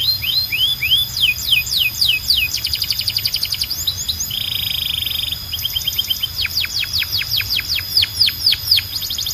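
Domestic canary singing in a continuous run of phrases: quickly repeated rising notes, then a fast trill, a short buzzy roll a little over four seconds in, and a series of long downward-sweeping notes near the end. A faint steady low hum runs underneath.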